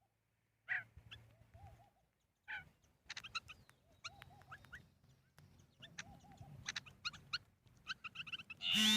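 Birds calling: many short, repeated chirps and calls, with a much louder call at the very end.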